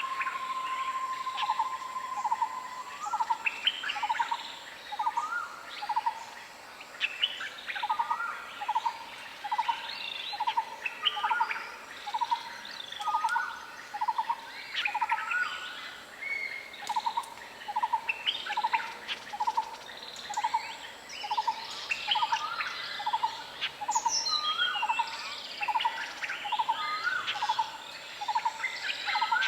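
Several wild birds calling together in a tropical forest chorus. One bird repeats a short low note about twice a second, while others add higher chirps and trills, and a steady whistle-like tone runs for the first couple of seconds.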